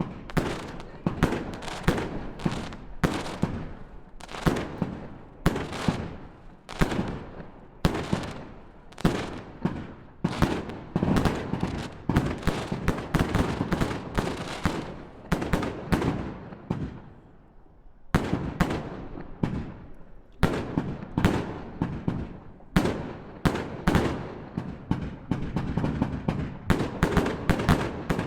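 Fireworks display: a long run of sharp bangs from bursting shells, about one or two a second, each trailing off in an echo. A short lull comes about two-thirds of the way through, then the bangs come faster near the end.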